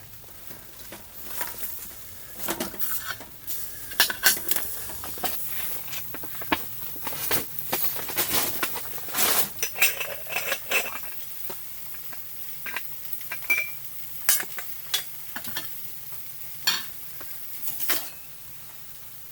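Metal cookware and utensils being handled: irregular clinks, taps and short scrapes, like stirring and knocking a spoon against a pot or pan.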